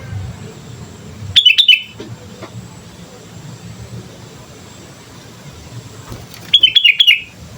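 Sooty-headed bulbul (kutilang) singing: two short, loud bursts of quick chattering notes about five seconds apart, over a steady low rumble.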